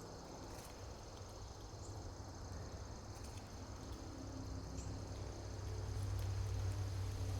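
Steady high insect chirring, with a few faint ticks, over a low rumble that grows louder toward the end.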